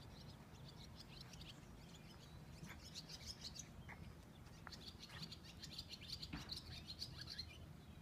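Small birds chirping faintly: quick runs of high notes, in a cluster about three seconds in and a longer one from about five to seven and a half seconds.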